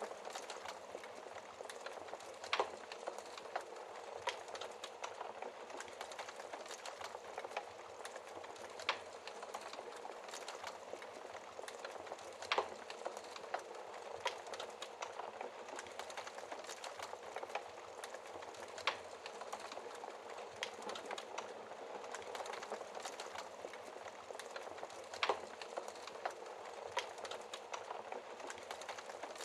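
Wood fire crackling in a fireplace: a steady hiss of burning with frequent small irregular crackles and an occasional louder pop.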